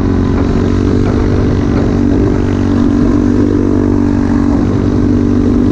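Pit bike's small single-cylinder engine running under way at a steady cruising speed, holding a fairly even pitch.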